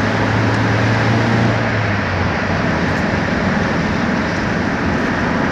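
Car engine and road noise in slow, heavy traffic: a steady hiss and rumble, with a low hum that fades out about two seconds in.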